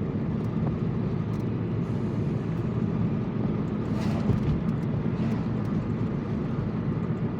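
Steady engine and tyre road noise inside a moving car's cabin, a continuous low rumble with a few faint ticks.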